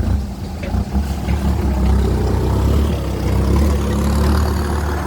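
Kubota M6240SUH tractor's four-cylinder turbo diesel running through an aftermarket 3-inch exhaust pipe, a deep steady rumble that gets a little louder about two seconds in. The exhaust note is called fierce.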